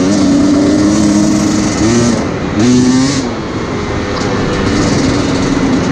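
2017 Husqvarna TE 250's two-stroke single-cylinder engine running loud as the dirt bike is ridden, its note dipping and climbing again a couple of times about two to three seconds in.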